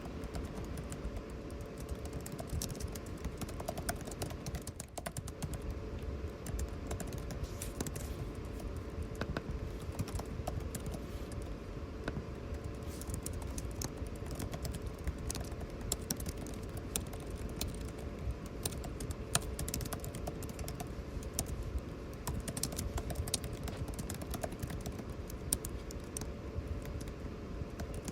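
Computer keyboard typing: a continuous run of irregular keystroke clicks over a steady air-conditioning hum.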